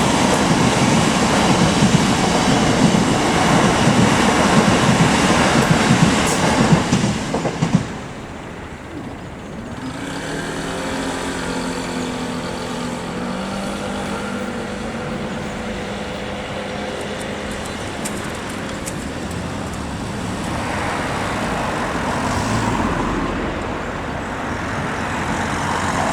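Irish Rail 8520 class DART electric train passing through a level crossing, with loud wheel and rail noise that drops away sharply about eight seconds in. After that comes quieter, steady vehicle noise with engine tones rising in pitch, swelling again near the end.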